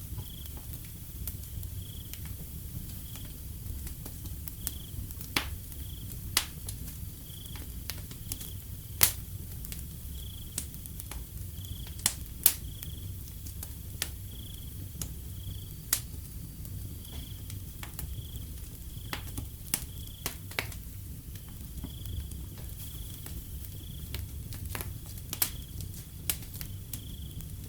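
Wood fire crackling, with irregular sharp pops over a steady low rumble. Short high chirps from a night animal repeat behind it about once a second.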